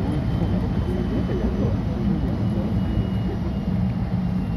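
Steady running noise of an electric train heard from inside the passenger cabin: a low rumble from the wheels on the rails, with a faint high whine slowly falling in pitch.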